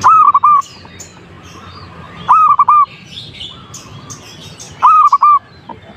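Zebra dove cooing: three short phrases of three or four quick, rounded notes each, about two and a half seconds apart. Faint chirps of other small birds sound behind.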